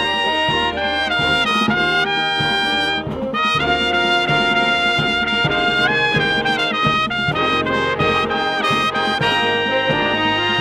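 Brass marching band playing a medley: trumpets and trombones carry a melody of held notes that step from pitch to pitch.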